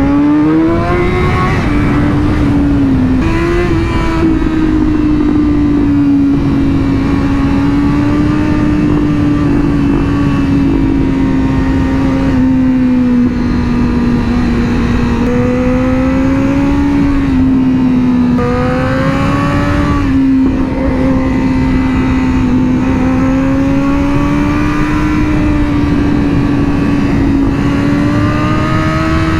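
Sportbike engine pulling hard through corners. Its note climbs sharply in the first second, then holds high, rising and falling with the throttle and dipping briefly a few times. A steady wind rush sits underneath.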